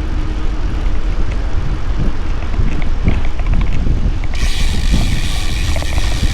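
Wind buffeting the microphone of a moving cyclist, a dense low rumble, with a few faint ticks in the middle. About four seconds in, a loud steady hiss joins it.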